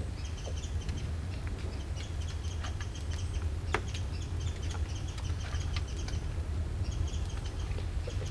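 Small birds chirping and twittering over a steady low rumble, with a few sharp clicks.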